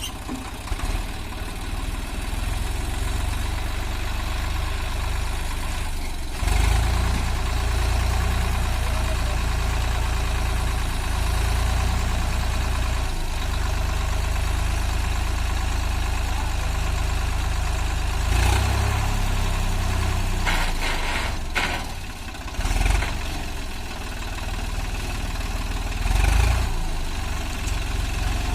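Tractor diesel engine running steadily, growing louder for a moment several times, the strongest about six seconds in and again near the end.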